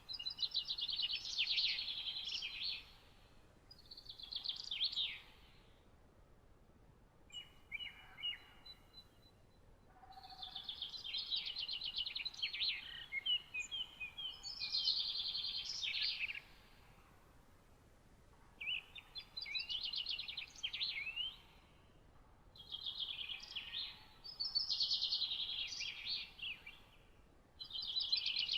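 A songbird singing repeated rapid, trilled song phrases, each a couple of seconds long, with short pauses between them; a few thinner whistled notes come in between phrases about eight seconds in.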